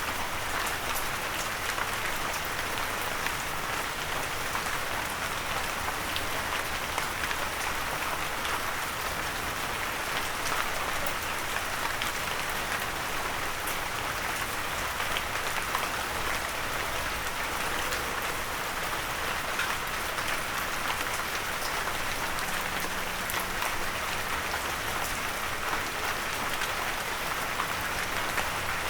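Steady rain falling and drops pattering on a windowsill, with many small scattered drop clicks.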